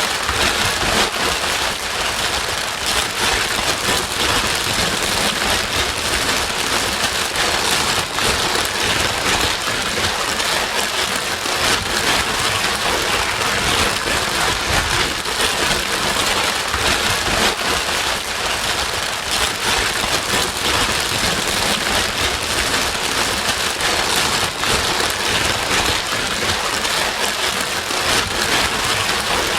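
Steady white noise with a rain-like patter, a loud, even hiss that does not change, of the kind played to soothe a crying baby.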